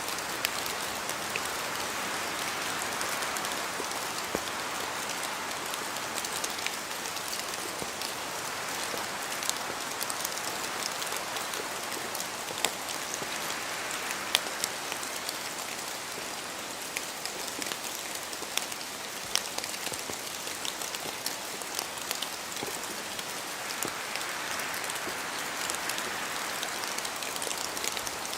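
Steady rain pattering in a spruce forest, with many separate drops tapping as they fall from the branches. Wind through the trees swells and fades a few times.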